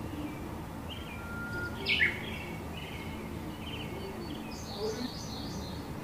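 Birds chirping and calling over steady low background noise, with a louder call sliding downward about two seconds in and a quick run of high chirps near five seconds.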